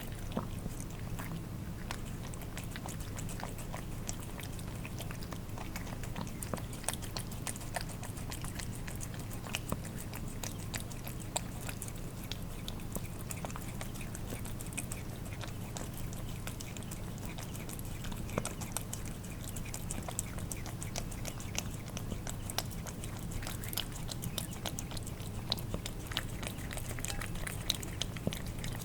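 Cats eating wet food: irregular wet licking, lapping and chewing clicks, with a steady low hum underneath.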